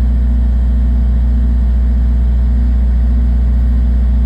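Steady, unchanging low drone of running machinery, engine-like, with a strong low hum.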